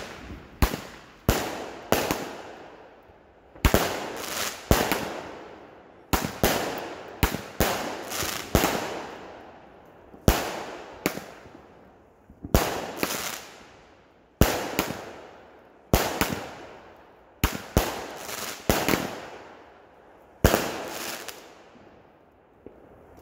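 Consumer aerial fireworks (cakes and mortar shells) launching and bursting overhead: a long run of sharp bangs, often in quick pairs and clusters about a second apart, each trailing off in an echo.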